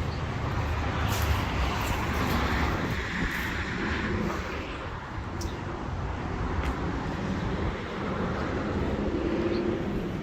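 Road traffic passing, a steady wash of tyre and engine noise with one vehicle swelling louder about a second or two in, then easing off.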